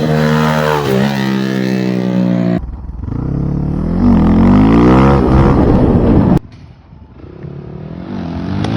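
Motorcycle engine running and being revved, its pitch rising and falling repeatedly. The sound changes abruptly twice.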